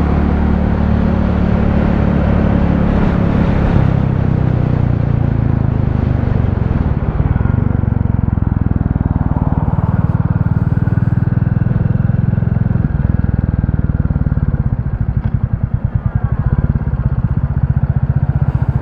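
Royal Enfield Classic 350's single-cylinder engine running on the road, with wind and road noise over it. Its pitch steps a few times as the bike changes speed. About three-quarters of the way through it drops to slow, separate beats as the bike slows, then picks up again.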